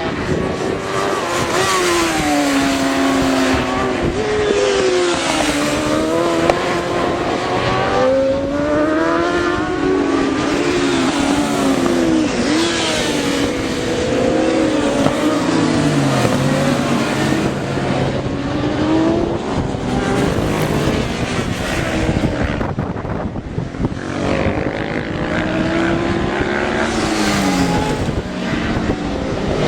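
Several racing motorcycle engines at full throttle, revving up and dropping with gear changes as a group of bikes goes past, their notes rising and falling over one another without a break.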